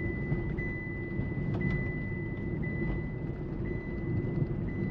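Inside the cabin, a Tata Altroz's 1.2-litre Revotron three-cylinder petrol engine pulls steadily at low revs in third gear, with road rumble underneath. A faint high tone pulses about once a second.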